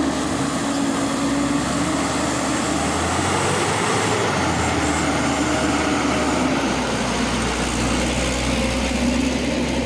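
Diesel truck engine running hard at steady high revs under load, with a dense wash of mechanical noise.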